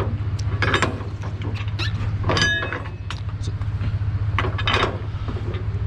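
Truck engine running steadily with a low hum, with a few scattered short clicks and knocks over it.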